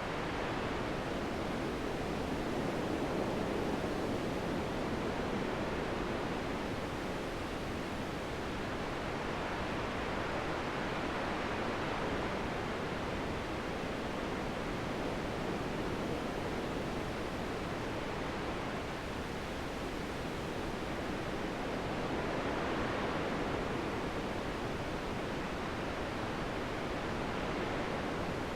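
Steady wind blowing, a continuous rushing noise that swells and eases slowly every several seconds.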